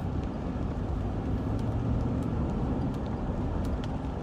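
Car cabin road noise while driving: a steady low rumble of the engine and tyres heard from inside the car.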